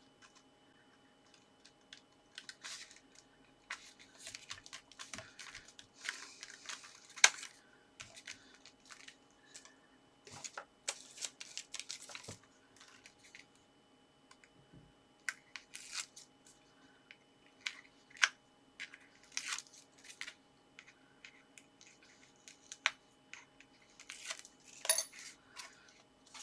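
Card stock being handled and positioned by hand: scattered paper rustles, light taps and clicks, with a faint steady hum underneath.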